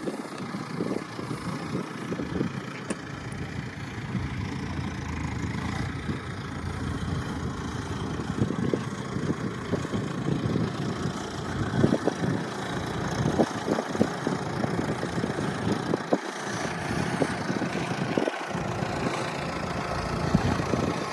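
A vehicle engine running steadily at idle, with gusts of wind buffeting the microphone.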